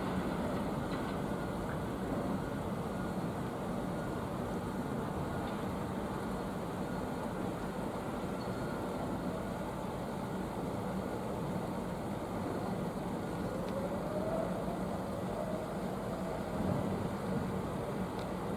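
Steady low rumble and hiss of distant vehicle noise, with a constant low hum. A faint tone rises and falls about fourteen seconds in.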